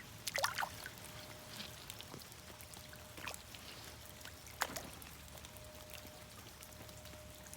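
Faint trickling, pouring water at the water's edge, with a few sharp clicks and knocks, the loudest about half a second in and near five seconds in.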